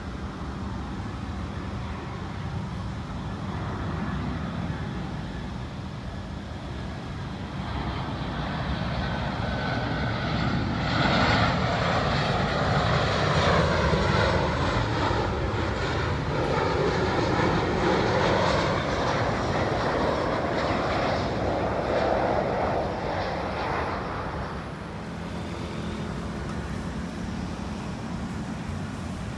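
Boeing 737-900 jet on final approach passing overhead: a rumble that swells to a loud whine and roar about halfway through, its pitch gliding down as it goes by, then fading away near the end over a steady low background rumble.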